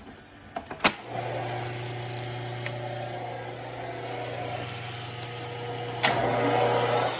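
1947 South Bend 14-1/2 metal lathe starting up: clicks about a second in, then the machine running with a steady hum. A sharp knock about six seconds in, after which it runs noisier.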